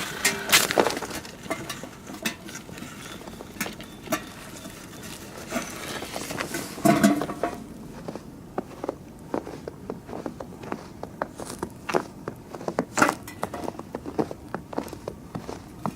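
Irregular crunches and sharp clicks of footsteps in snow and over ice in metal shoe cleats, mixed with knocks and clinks as the metal bird-feeder pole and squirrel guard are handled; one short ringing clank about seven seconds in.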